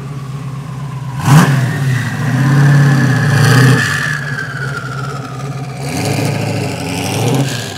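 Sports car engine revving, swelling twice, with a sharp crack about a second in and a high whine that slowly falls in pitch.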